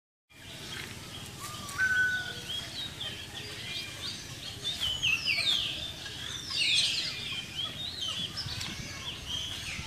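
Birds calling: many short, high chirps and whistles, with two louder descending squeals about five and seven seconds in.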